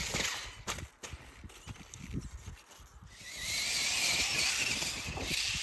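Electric motor of a Losi LMT RC monster truck whining as it is driven with a failing battery: a short whine at the start, then a longer, slowly rising whine from about halfway through, over low rumble and a few knocks.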